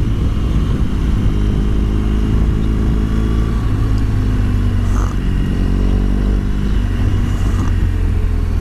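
BMW R1200GS liquid-cooled boxer twin running under way, its engine note shifting in pitch a couple of times, over a heavy rumble of wind on the microphone.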